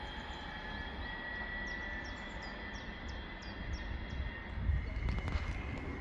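Low, steady rumble of distant trains in a railway station. A bird sings a run of about eight short, high, falling notes, roughly three a second, in the middle.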